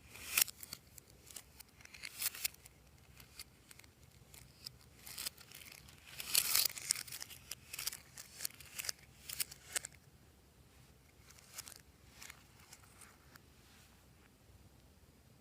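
Glossy slime being squished and mixed by hand, giving an irregular run of sticky crackling clicks and pops, densest about six to seven seconds in and thinning to a few scattered clicks after about ten seconds.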